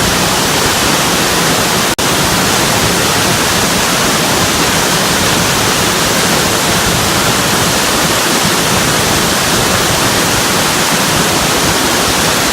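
Waterfall pouring steadily: a loud, even rush of falling water, with a momentary break about two seconds in.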